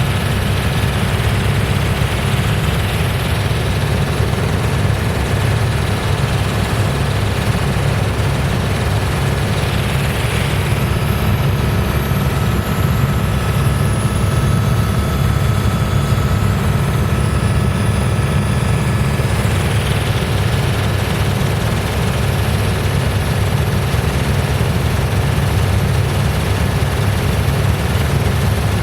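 Helicopter turbine and rotor running steadily in flight, heard from inside the cabin as a constant low drone with a fast blade beat.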